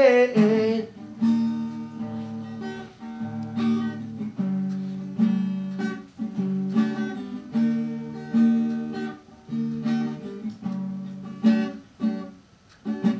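Acoustic guitar strumming chords in a steady rhythm, as an instrumental break in a song.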